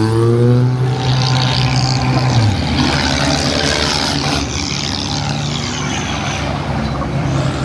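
Tractor engine running hard at high revs: a steady low drone that drops slightly about two and a half seconds in, under a loud rushing noise.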